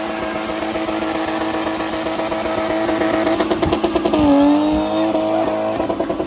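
Spinning car's engine held at high revs, a steady high note that starts pulsing rapidly about three seconds in. Just after four seconds the pitch dips briefly and climbs back up.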